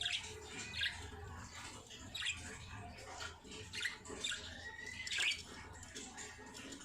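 Baby birds giving short, high-pitched squeaky calls, about five spread over a few seconds, the loudest about five seconds in.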